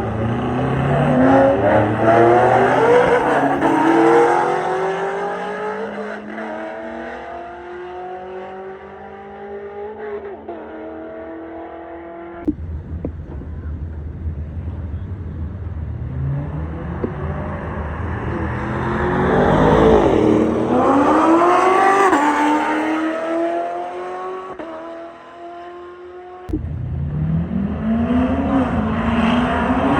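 Cars accelerating hard, their engines revving up and dropping back again and again as they shift through the gears. The sound cuts abruptly about twelve seconds in and again near twenty-six seconds, each time straight into another hard-accelerating run.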